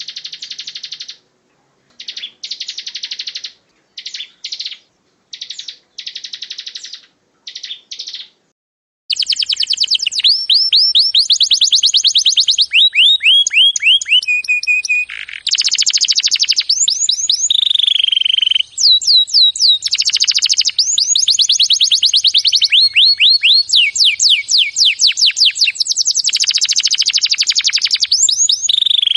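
Songbird song from a bird-tutoring (masteran) recording. It starts as several short buzzy trilled phrases separated by abrupt silent gaps. From about nine seconds in it becomes a loud, unbroken run of rapid falling whistled notes.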